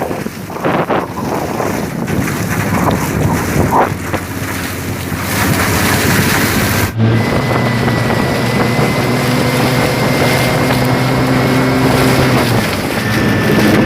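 Swamp boat's VAZ-2110 four-cylinder car engine running steadily, with wind rushing over the microphone. There is a sudden cut about halfway through, after which the engine hum is steadier and clearer.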